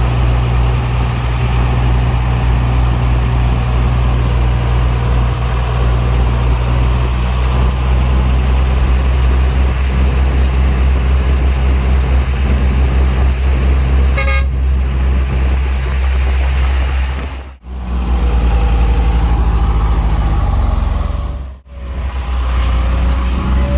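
Heavy diesel engine of earthmoving equipment running steadily under load, with a short horn toot about 14 seconds in. The sound drops out briefly twice near the end.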